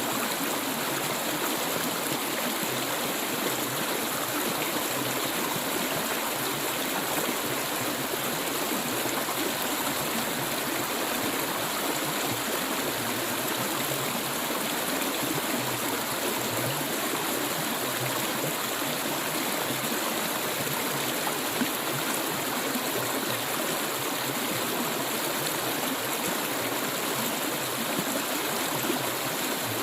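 Clear stream water flowing steadily over rocks, a constant rushing and gurgling.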